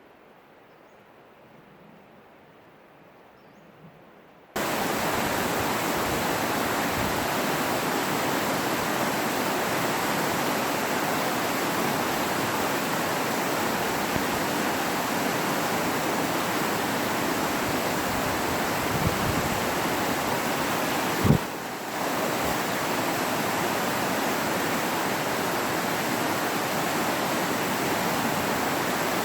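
Faint outdoor quiet, then about four seconds in a sudden switch to the loud, steady rush of fast-running water. A single brief thump is heard about two-thirds of the way through.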